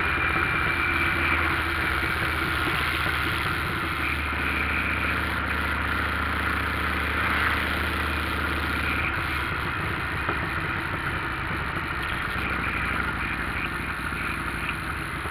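Motorcycle engine running steadily under a continuous rushing noise, with no sharp changes.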